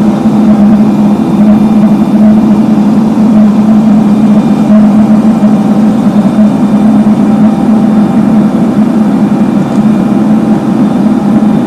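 Engine of heavy road-paving machinery running steadily at constant speed, a loud even drone.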